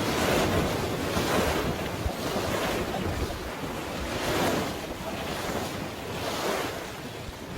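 Sea waves washing in over and over, with wind buffeting the microphone.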